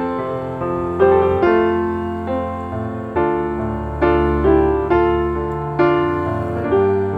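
Slow, gentle piano music: single notes and chords struck about once a second, each ringing and fading.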